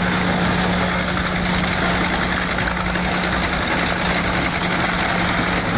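Pezzolato PTH 1400 drum chipper running under load: the steady drone of its 1,150 hp Cat engine under a continuous dense rushing noise of wood being chipped.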